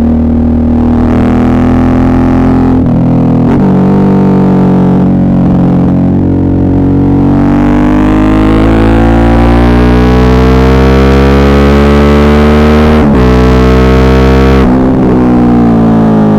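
Suzuki V-Strom 650's V-twin engine pulling under way, loud and distorted. The pitch falls off early on, then climbs steadily for several seconds under acceleration, with brief breaks about 3 s and 13 s in and a drop in pitch near the end.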